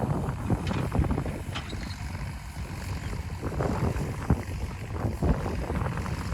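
Wind buffeting the microphone outdoors, an irregular low rumble with uneven gusty thumps.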